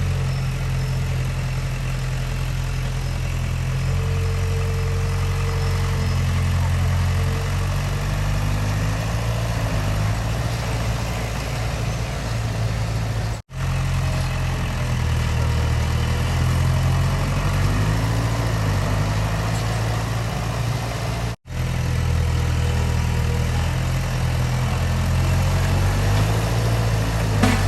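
Heavy diesel engine of construction machinery running steadily, a low drone that shifts a little in pitch, cut off twice by brief drops to silence.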